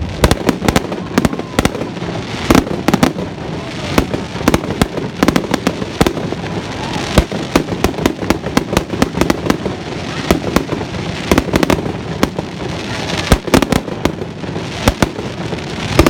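Fireworks exploding in a dense, irregular barrage: many sharp bangs several times a second, some louder, over a continuous crackling rumble.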